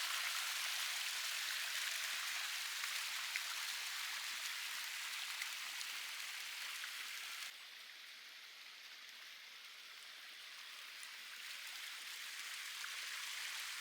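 Waterfall: a steady rush of falling water, mostly hiss with little low end. It drops suddenly in level about seven and a half seconds in, then slowly grows louder again.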